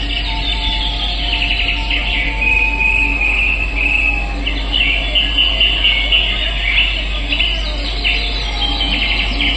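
Birds chirping and trilling, many overlapping high calls, over a steady low hum.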